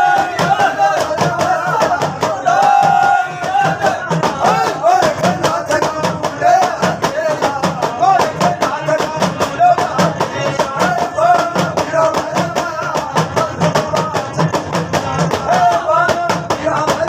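Rajasthani folk song performed live: a singer's wavering melody over instrumental accompaniment with a steady, fast percussion beat.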